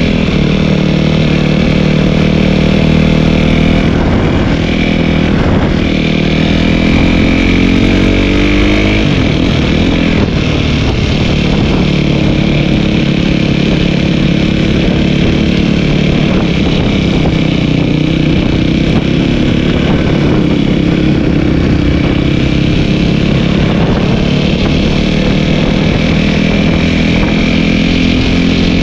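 Dirt bike engine running under way, its pitch climbing and dropping again and again as the rider throttles up and shifts gears, over a steady low rumble of wind on the microphone.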